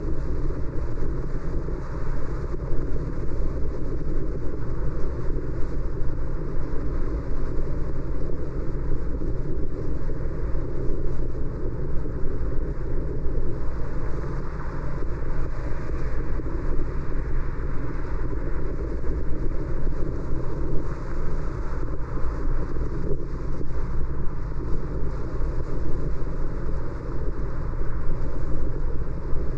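Steady road noise of a car driving: an even rumble of tyres and wind, strongest at the low end, with no single engine note or sharp event standing out.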